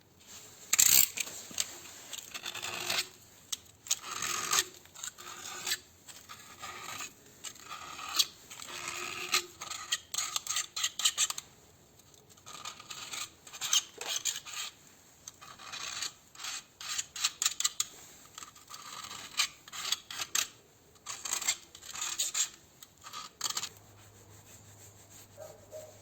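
Hand work on motorcycle engine parts: irregular scraping and rubbing with sharp metallic clinks and taps from tools and parts being handled.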